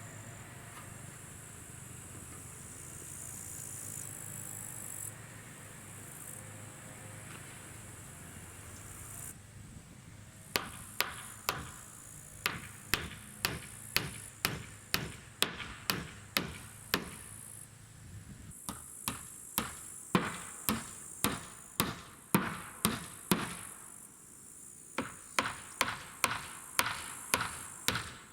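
Insects chirping steadily at first. Then, from about a third of the way in, a hammer strikes in quick even runs of about two blows a second, with two short pauses: nails being driven.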